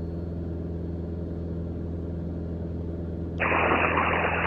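Mooney M20J's four-cylinder Lycoming IO-360 engine droning steadily at cruise, heard through the cockpit intercom. About three and a half seconds in, a burst of radio hiss opens as a transmission starts.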